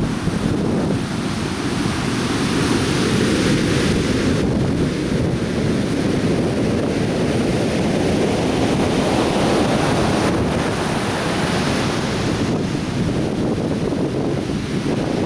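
Atlantic surf breaking and washing on a beach, a steady heavy rush of waves with slow swells in loudness, with wind buffeting the microphone.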